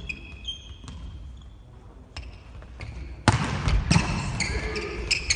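Volleyballs being struck and bouncing on an indoor court, with sneakers squeaking on the floor. The hits are sharp and scattered, and a loud one comes about three seconds in, followed by several more.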